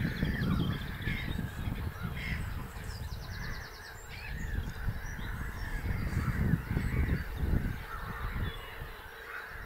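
Wild birds calling at intervals, with a short rapid chattering rattle about three seconds in, over a low, uneven rumble.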